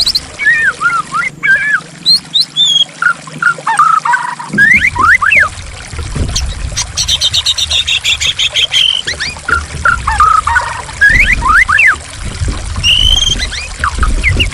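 White-rumped shama singing a varied song of short whistled notes and rising and falling sweeps, with a long fast trill in the middle, over steadily flowing water that grows heavier and lower about a third of the way in.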